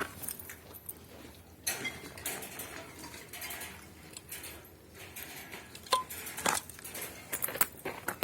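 Irregular light clinks and knocks of metal objects, with rustling between them.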